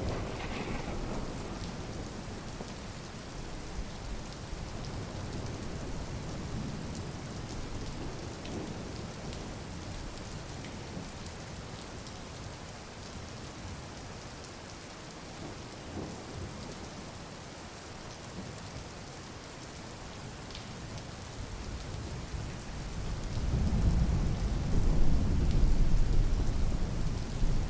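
Steady rain falling, with a low rumble of thunder building up near the end and loudest in the last few seconds.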